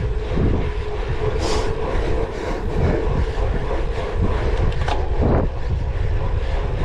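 Cyclocross bike ridden hard over rough ground: a steady rumble of tyres and drivetrain with wind buffeting the microphone.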